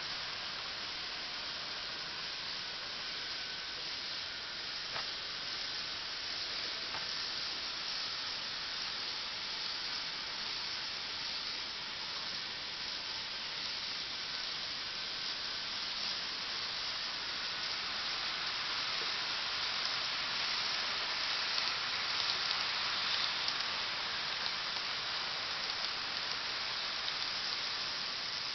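N gauge model train running on its track: a steady hissing whir. It grows slightly louder, with a few light clicks, in the last third.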